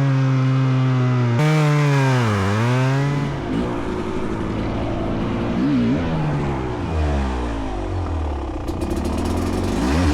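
A small engine held at a steady high speed, dipping briefly under load about two seconds in. After a cut, dirt bike engines rev up and down.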